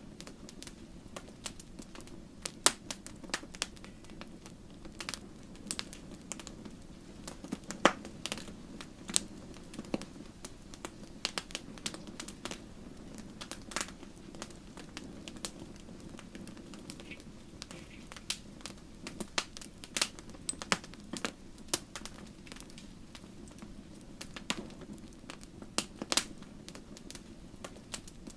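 Wood fire burning in a fireplace: burning logs crackle with irregular sharp pops and snaps over a steady low rush of the flames.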